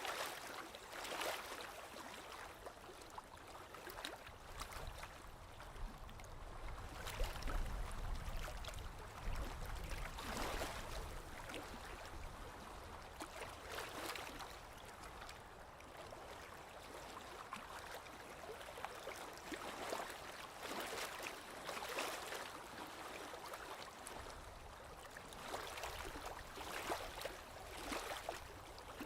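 Small waves lapping against a lake shore in soft, irregular splashes, with a low rumble of wind on the microphone partway through.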